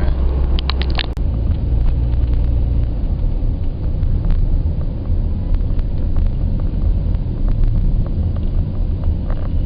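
Steady low outdoor rumble, with a few brief clicks about a second in.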